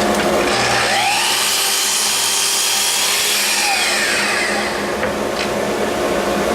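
Chop saw spinning up about half a second in, running through a cut for about three seconds, then winding down, over a steady machine hum.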